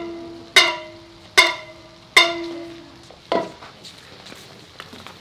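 A pitched note struck three times at the same pitch, about a second apart, each ringing briefly and fading, then a duller knock.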